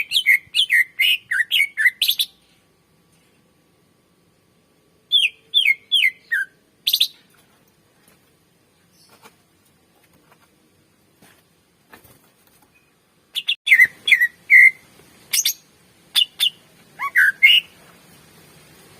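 Cucak ijo (green leafbird) singing: three bursts of rapid, sharp whistled and chattering notes, separated by pauses of several seconds.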